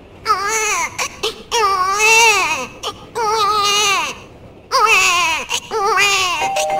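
Baby crying: four long wails, each rising and falling in pitch, with short breaks for breath between them.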